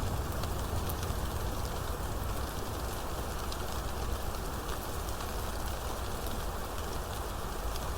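Steady rainfall: an even hiss of rain with fine drop ticks scattered through it and a continuous low rumble underneath.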